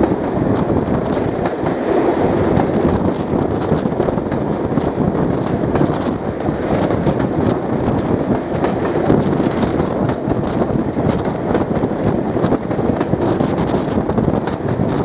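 Diesel-hauled train running along the line: a steady rumble of wheels on rail, with clicks over the rail joints.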